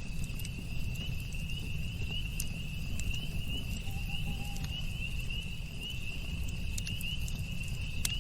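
Crickets chirping in a steady, rapid, high-pitched rhythm over a low, even rumble, with a few sharp crackles from a campfire.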